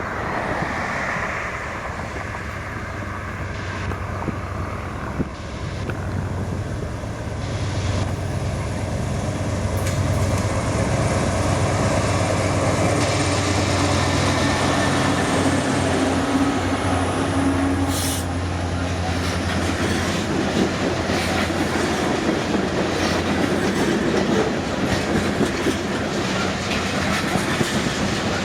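Loaded freight train passing close by: a low, steady diesel locomotive drone that grows louder over the first ten seconds and fades after about twenty, followed by the clickety-clack of freight car wheels over rail joints.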